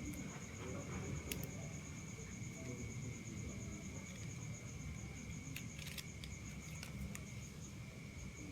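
Insects, likely crickets, chirping steadily in the background as a fast pulsing trill over a steady high whine, with a few short faint clicks.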